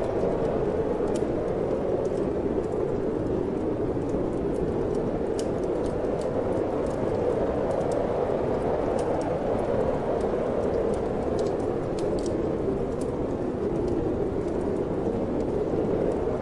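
Steady rushing wind, with the sparse small pops and crackles of a wood fire burning in a fireplace.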